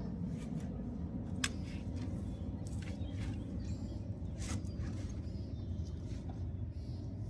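A steady low rumble with a few short, sharp clicks and knocks scattered through it.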